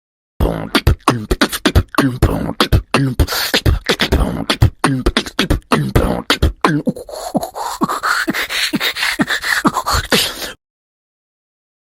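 A fast, irregular run of percussive vocal pops and clicks, beatbox-style, with a tone gliding upward through the second half. It cuts off suddenly near the end.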